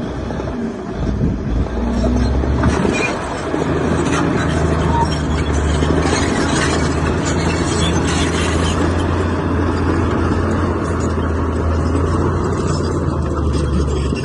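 Heavy diesel engine of earthmoving machinery running steadily at a low, even pitch, with scattered knocks and rattles over it in the first half.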